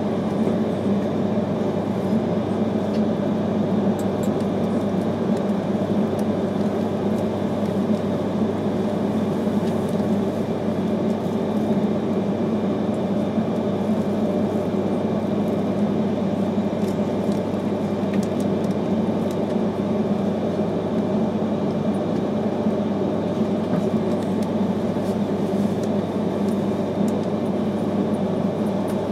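Steady running noise of an E3-series Akita Shinkansen Komachi train heard inside the passenger car: an even hum and rumble from the moving train that does not change.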